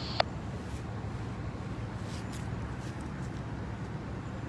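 A two-way radio transmission cuts off with a sharp squelch click just after the start. After that a steady low hum and faint hiss continue with no voices.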